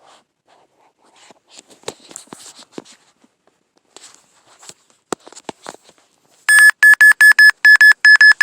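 Handheld EMF meter's alarm beeping fast and loud, about five high-pitched beeps a second, starting near the end: the meter is reading a high level held against a cell phone. Before it, faint clicks and rustles of handling.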